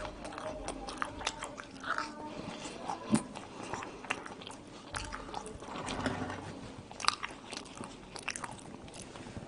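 Chewing French fries topped with ketchup and mayonnaise: irregular crunching bites and wet mouth clicks, the sharpest about three seconds in and again about seven seconds in.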